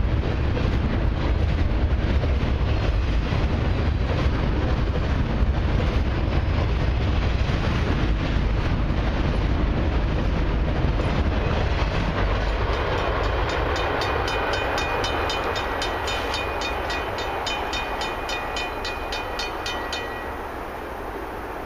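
Freight cars of a CP Expressway intermodal train, highway trailers on low flatcars, rumble past over the rails, the sound dying away as the end of the train goes by. From about halfway, a level-crossing bell rings steadily, then stops shortly before the end as the gates lift.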